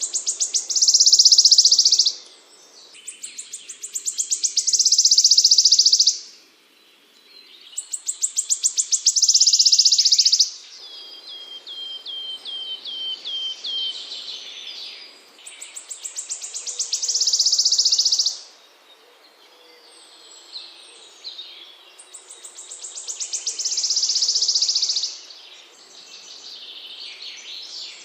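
A small songbird singing repeated songs. Each song is a run of notes that speeds up into a loud, high, buzzing trill lasting about two seconds, and the songs come about every six or seven seconds. In one gap there is a quicker series of short falling notes.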